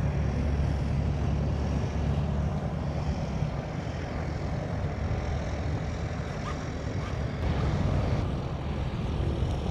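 Steady low engine drone under an even wash of wind and water noise.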